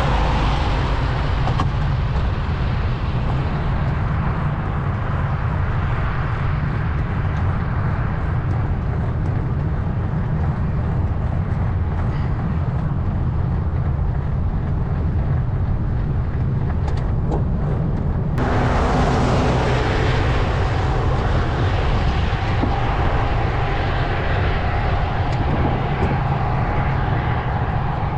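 Steady rumble of wind and road noise on a camera moving along a road. About eighteen seconds in it switches abruptly to a brighter, louder road noise with a steady whine over it.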